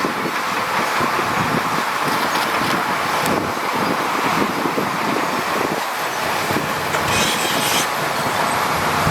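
Heavy diesel earthmoving machinery running steadily, with an irregular metallic clatter like a crawler's tracks, and a brief hiss about seven seconds in.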